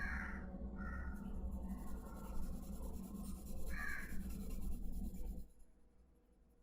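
A crow cawing about three times: at the start, just under a second in and again near four seconds. Under the calls runs a steady low hum that stops near the end.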